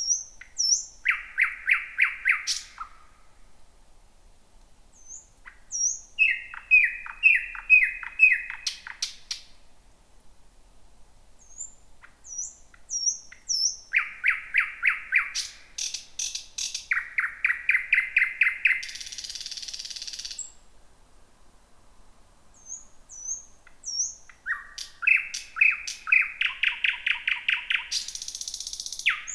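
Thrush nightingale singing: four song phrases separated by pauses. Each phrase opens with a few high, thin notes, then runs into fast series of loud repeated notes mixed with clicks. Two of the phrases, about two-thirds of the way in and at the end, close with a harsh, dry rattle.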